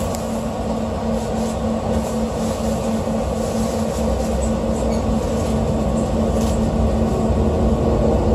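Expo Line SkyTrain car's steady hum, heard from inside the car, with a steady low tone under a noisy rumble that slowly grows louder near the end.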